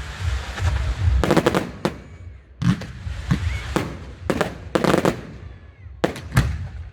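Fireworks going off in a display: a rapid, irregular run of about ten sharp bangs, with crackle between them.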